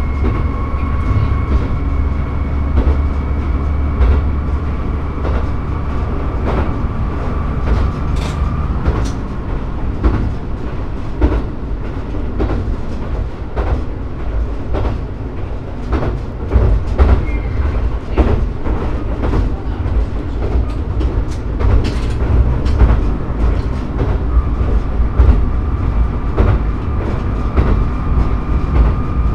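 Diesel railcar running at speed: a steady low engine rumble with the wheels clacking over rail joints, and a steady whine that stops about eight seconds in and comes back near the end.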